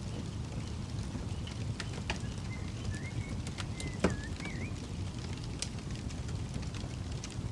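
Campfire crackling, with scattered sharp pops and one loud crack about four seconds in, over a steady low rumble. A faint warbling bird call runs through the middle.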